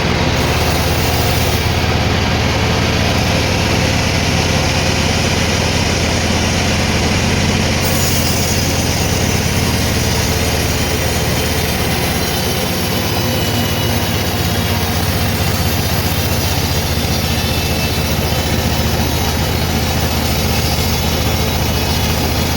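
Sawmill machinery running steadily with a strong, constant low hum.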